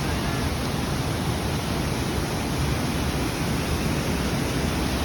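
Steady rush of rough water pouring over a waterfall and dam, an even, unbroken noise with no pauses.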